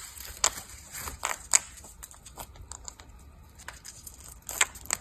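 A parrot tearing and crumpling paper with its beak: irregular crackles and snaps of paper, with a few sharper rips about a second and a half in and again near the end.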